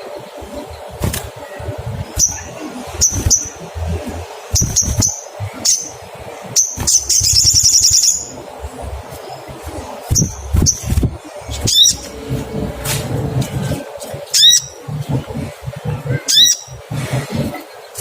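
Olive-backed sunbird giving sharp, high "cuit cuit" chirps, singly and in quick pairs, with one fast rattling trill about seven seconds in.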